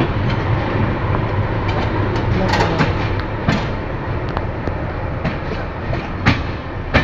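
Passenger train running, heard from on board: a steady rumble of the coach with the wheels clacking over rail joints. The sharpest clacks come about three and a half seconds in and twice near the end.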